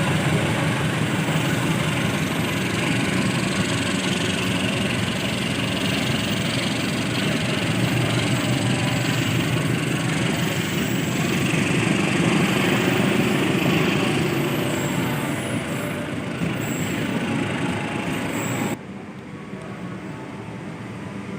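A train running along the rails, a steady loud rumble of wheels and carriages, which cuts off suddenly near the end to a much quieter background.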